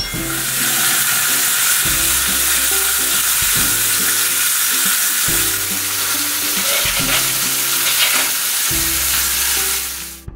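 Frozen beef burger patties sizzling in a hot frying pan, a steady sizzle that cuts off near the end. Background music plays underneath.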